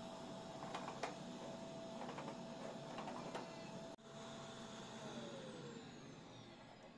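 A small motor running with a steady hum, amid light clicks and taps, then winding down in pitch and stopping about five to six seconds in.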